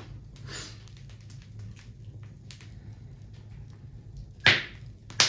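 Wood bonfire crackling quietly with a few faint snaps, then two sharp loud pops a little over half a second apart near the end.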